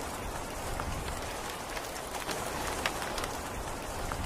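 Steady heavy rain falling, a dense even hiss with scattered sharp drop ticks.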